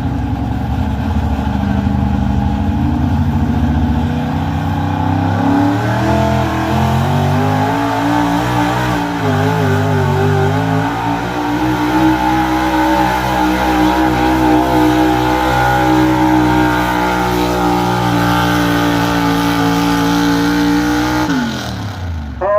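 Gas pickup truck engine at high revs pulling a sled down the track. Its pitch climbs over the first several seconds, then holds high with some wavering. Near the end it drops away sharply as the throttle comes off at the end of the pull.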